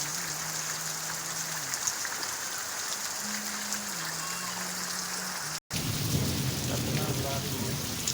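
Steady rain falling, an even hiss of drops. About five and a half seconds in the sound drops out for an instant, and after it a heavier low rumble joins the rain.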